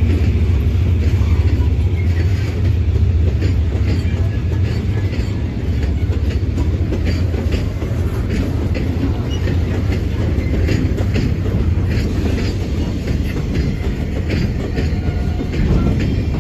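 Container flat wagons of a freight train rolling past: a steady low rumble with many wheel clacks over the rail joints.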